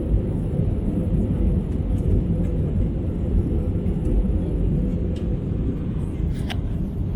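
Steady low rumble of airliner cabin noise from jet engines and airflow.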